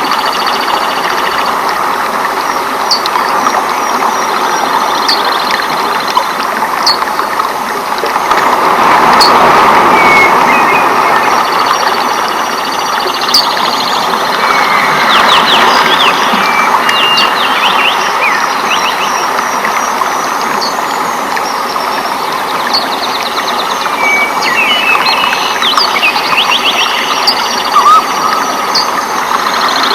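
Rainforest ambience: a steady rush of rain, swelling louder for a few seconds about a third of the way in, with birds chirping and giving quick trilling calls over it.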